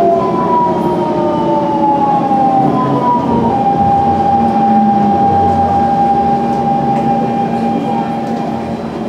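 Siemens C651 metro train's GTO traction inverters and motors whining over the running rumble: several tones glide down in pitch for the first few seconds, then one tone holds steady until near the end.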